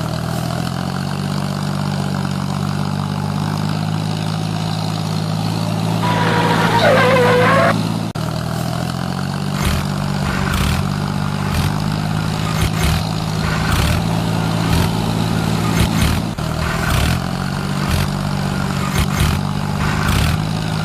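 A steady low engine-like hum from the mini tractor. A brief higher wavering sound comes in about six seconds in, and irregular knocks and clicks begin about halfway through.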